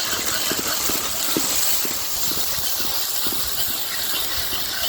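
Onions and ginger-garlic paste sizzling in hot oil, a steady hiss with scattered small pops.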